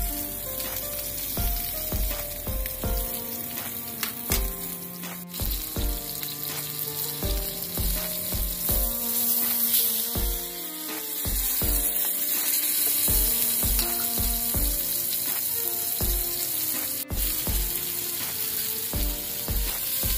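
Swordfish steaks sizzling in hot olive oil in a frying pan, a steady frying hiss. Background music with a melody and a regular beat plays over it, and there are two sharp clicks, one about five seconds in and one near the end.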